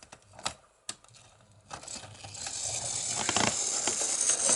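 Mainline Railways OO gauge model 0-6-0 steam locomotive with a few sharp clicks, then running along the model track: its small electric motor whirs and its wheels clatter over the rails. The sound grows steadily louder from about two seconds in.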